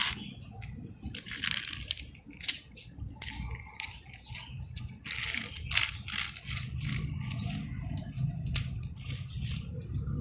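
Small plastic toys being handled and set down, with irregular clicks, clatters and rustles over a low steady hum.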